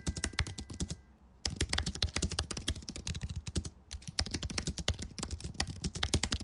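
Rapid computer-keyboard typing in three runs of quick keystrokes, with short pauses about a second in and about four seconds in.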